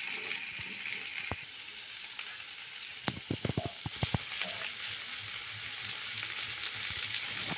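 Button mushrooms sizzling steadily as they fry lightly in hot mustard oil in a kadhai, stirred with a spatula at first. A quick run of sharp clicks comes about three seconds in.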